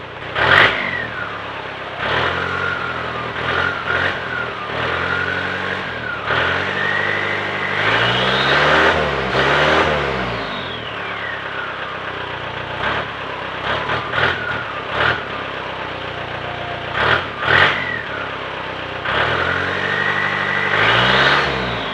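Turbocharged VW TDI diesel engine revved repeatedly through a new custom exhaust. There are quick throttle blips and one longer climb near the middle, with a high turbo whine rising and falling with the revs. It is louder than intended, which the owner puts down to the exhaust's back section not yet being fully welded on.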